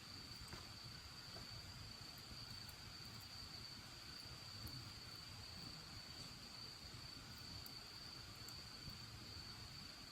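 A steady, unbroken high-pitched insect trill over the low rumble of a wood bonfire, with a few faint crackling pops from the fire.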